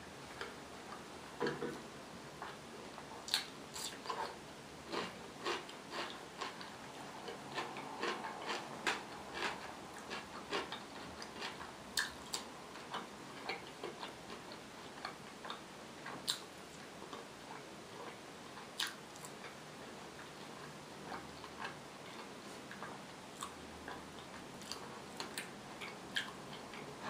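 Close-miked chewing and mouth sounds of someone eating fried potatoes: irregular sharp crackles and smacks, bunched at times into several a second.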